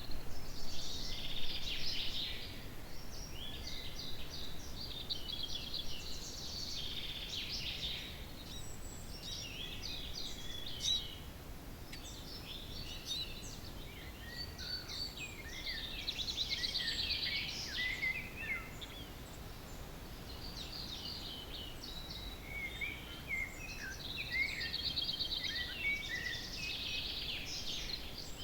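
Dawn chorus of several songbirds singing at once, overlapping whistled phrases and fast trills.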